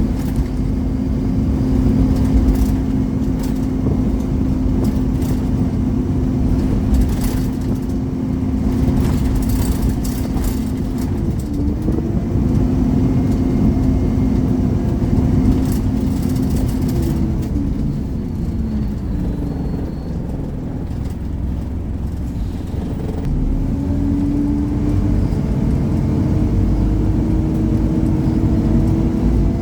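Scania OmniCity single-deck bus under way, heard on board: a steady engine and drivetrain drone over a low rumble, with rattles. About two-thirds of the way through the whine drops in pitch and quietens, then rises again as the bus picks up speed.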